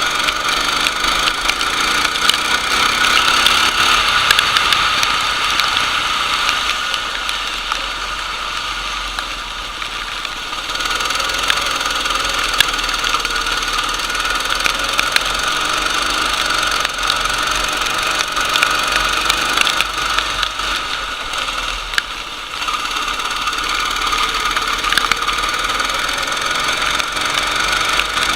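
Racing kart engine running hard, its note easing off twice and picking up again as the throttle is lifted and reapplied, over a crackly noise.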